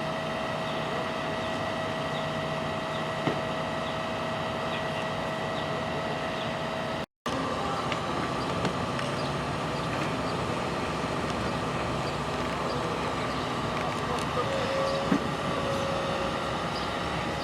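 Heavy diesel machinery running steadily: a constant engine drone with a steady whine over it. The sound cuts out for an instant about seven seconds in.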